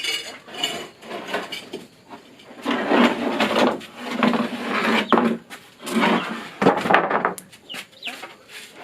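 Wood being worked by hand: a series of scraping strokes, each about half a second to a second long, starting about two and a half seconds in after a few light knocks.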